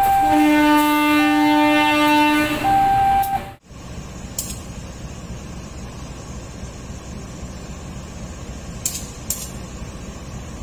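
Locomotive horn sounding one long blast, the semboyan 35 signal, over an alternating two-tone warning alarm. About three and a half seconds in the sound cuts off abruptly, leaving a steady low rumble with a few faint clicks.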